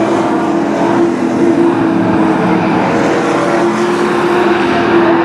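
Sport truck race engines running steadily on the track, a continuous loud engine drone with no pauses.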